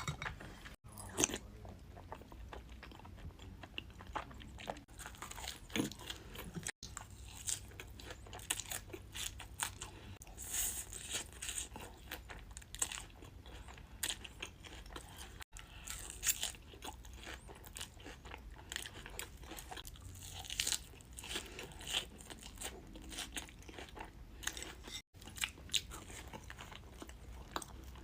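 Close-miked eating: crunchy bites and wet chewing, many short crackling smacks, broken by several abrupt cuts between clips.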